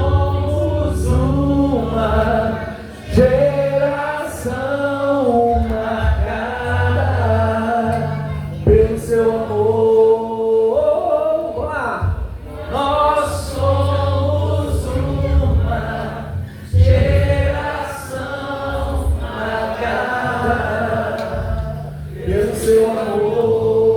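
A live band performing a song: several voices singing over steady bass notes, with short cymbal-like strikes every second or two.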